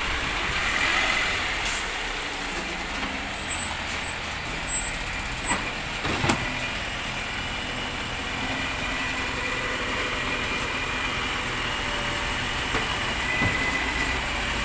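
A rubbish collection truck's engine running steadily as it drives off, with road noise and a few short knocks.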